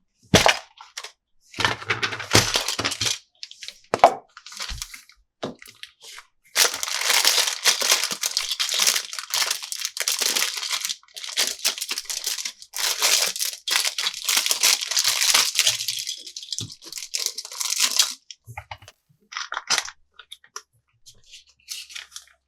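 Plastic toy packaging being crinkled and torn by hand during unboxing. It comes as a short burst, then a long stretch of dense crackling in the middle, with light clicks and rustles between and after.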